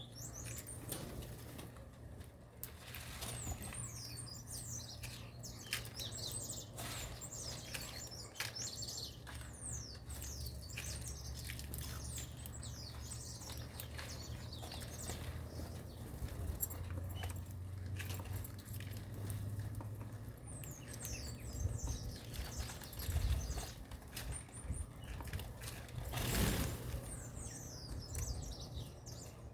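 Small birds chirping in quick, high, falling notes, with scattered wing flutters and a louder flutter near the end. A low steady hum runs underneath.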